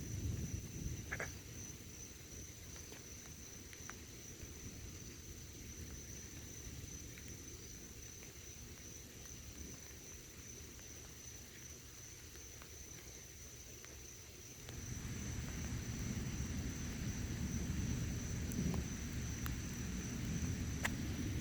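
Night insects chirring in a steady high-pitched chorus, over a low rumbling background that grows louder about fifteen seconds in.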